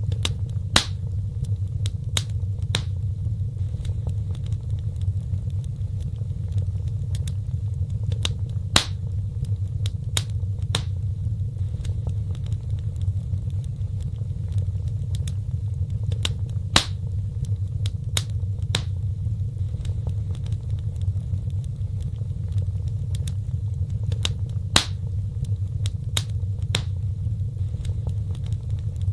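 Wood fire burning in a fireplace: a steady low rumble of flames with irregular sharp crackles and pops, the loudest pops coming about every eight seconds.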